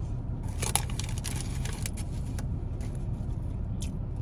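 A person chewing fried food, with short soft clicks and crackles clustered about a second in and again near the end, over a steady low rumble inside a car.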